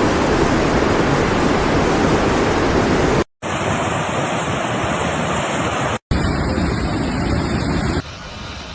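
Loud, steady rush of water, heard in separate footage segments joined by abrupt cuts: it drops out briefly twice and gets quieter near the end.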